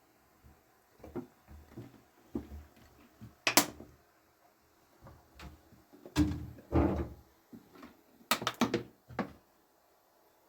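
Irregular knocks and clunks of household objects being handled and set down, with one sharp click about three and a half seconds in, a longer clatter a couple of seconds later, and a quick run of knocks just after eight seconds.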